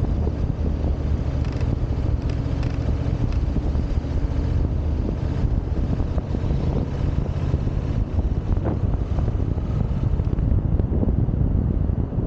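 Yamaha XSR700's parallel-twin engine running steadily while riding, under heavy wind noise on the microphone.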